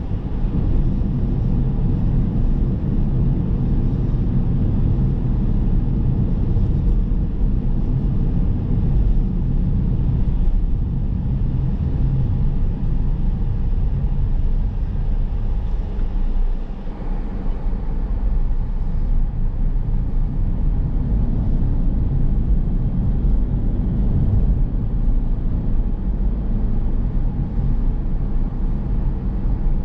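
Car driving along a road: a steady low rumble of engine and tyre noise, easing briefly about two-thirds of the way through before picking up again.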